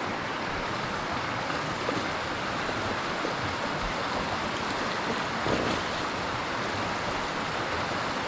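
A swollen, fast-flowing stream rushing steadily, high with water: a raging creek at a trail crossing.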